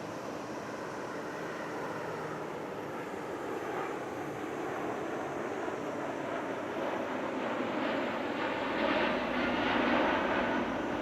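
Jet engine noise from a twin-engine widebody airliner flying past in a display, swelling steadily and loudest near the end.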